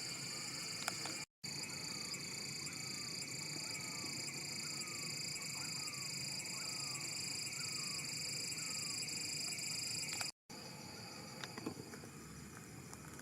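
Steady high-pitched insect chorus, with a faint short falling chirp repeating about twice a second through the middle. The sound drops out for a moment twice.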